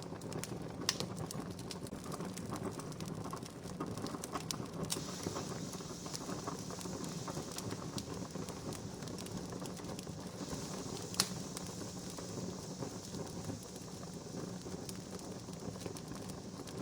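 Wood campfire crackling, with scattered pops and one sharp, louder pop about eleven seconds in; a soft hiss joins the crackle about five seconds in.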